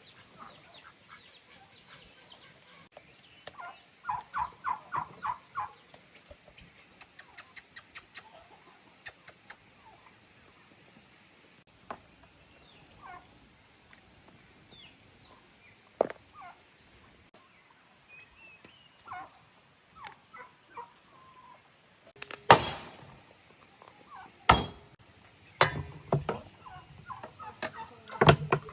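A domestic turkey gobbling, a quick run of about seven calls some four seconds in, with scattered fainter bird calls after. Several sharp knocks near the end are the loudest sounds.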